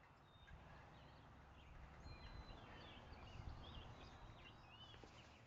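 Faint outdoor ambience: distant birds chirping in short scattered calls over a low rumble.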